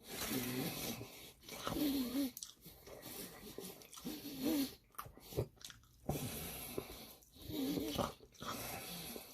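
A person chewing and eating a Papa John's papadia, with mouth sounds and several short, wavering voiced sounds between bites.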